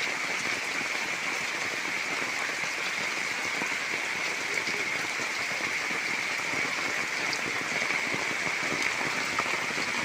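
Heavy rain falling steadily, an even unbroken hiss of rain on surfaces.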